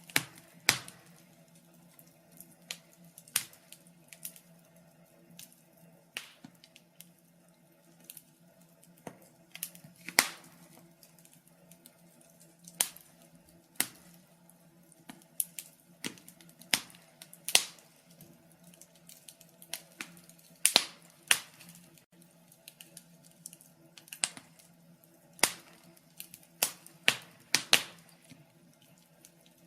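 Wood fire crackling, with irregular sharp pops and snaps, some louder than others, over a faint steady low hum.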